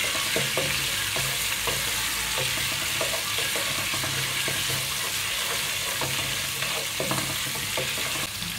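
Ginger-garlic paste and whole spices sizzling steadily in hot oil in an aluminium pot, stirred with a wooden spatula that scrapes and knocks against the pot now and then.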